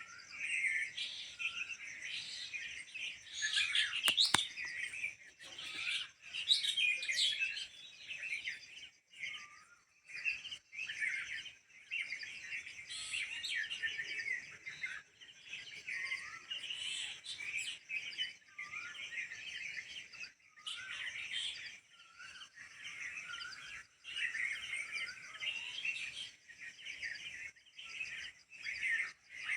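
Many small birds chirping and calling over one another without a break, with a steady faint high hiss underneath and a single sharp tick about four seconds in.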